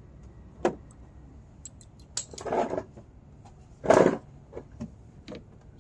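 Small metal tools and parts clinking and rattling as they are handled: scattered sharp clicks and two brief louder rattles, the louder one about four seconds in.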